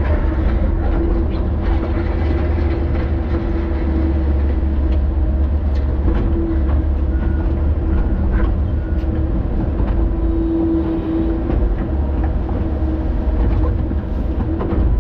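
Excavator's diesel engine running steadily under load, a deep rumble with a steady hum, with scattered clanks and knocks from the machine working.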